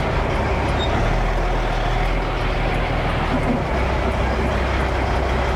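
Dump truck pulling a pup trailer, its diesel engine and road noise running steadily at speed; the low engine note drops a little about four seconds in.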